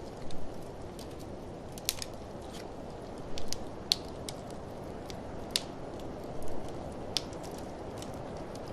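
Wood fire crackling in a fireplace, with sharp pops scattered irregularly, over a steady low rush of wind that swells briefly about every three seconds.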